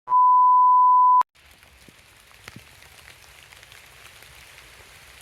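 A loud, steady electronic beep, one pure tone held for about a second, cut off with a click. After it, a faint hiss with scattered light ticks.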